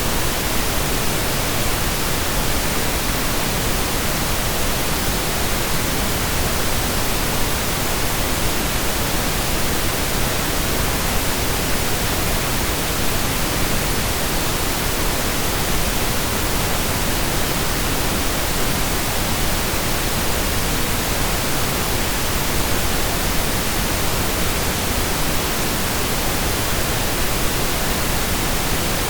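Steady synthesized pink noise, even hiss spread across the whole audible range, with no change or interruption.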